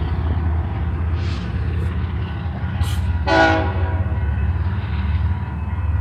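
Freight train rumbling steadily past, with one short horn blast just after three seconds in.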